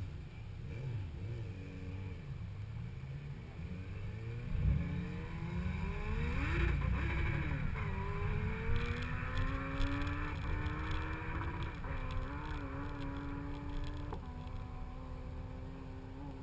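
Car engine rising and falling in pitch, first revved and then pulling forward slowly in a low gear, settling to a steady idle about two seconds before the end. A low rumble of wind on the microphone runs underneath.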